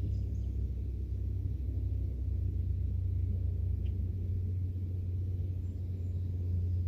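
Outdoor evening ambience: a low, steady rumble, with faint bird chirps near the start.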